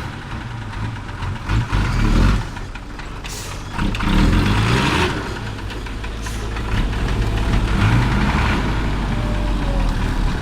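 Heavy dump truck diesel engine running close by, its low drone rising and falling in pitch a few times.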